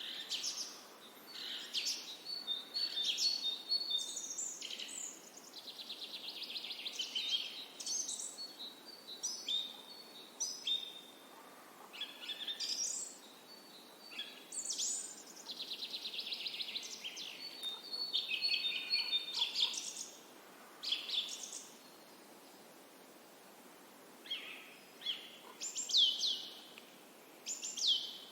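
Songbirds calling: a busy run of high chirps, whistled notes and fast buzzy trills, with a short lull about three quarters of the way through.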